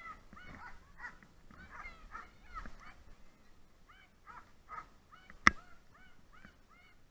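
Sled dogs, Siberian huskies, yipping in quick short repeated calls, with a single sharp click about five and a half seconds in.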